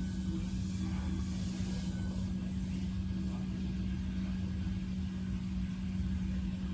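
A steady low hum with a constant low rumble beneath it, unchanging throughout.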